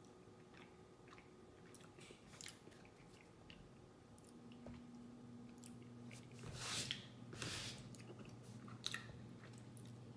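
Faint, close chewing of a mochi ice cream ball: soft, wet mouth sounds and small clicks, louder for about a second midway through.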